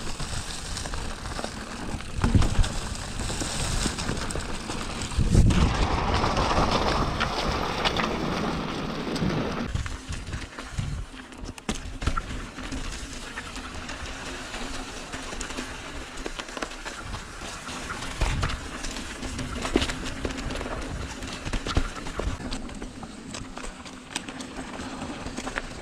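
Mountain bike riding over a dirt trail: tyre noise, rattles and knocks, with wind rushing on the microphone, loudest from about five to ten seconds in.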